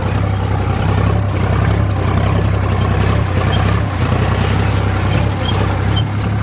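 Sonalika DI 35 tractor's diesel engine running steadily with a low, even drone.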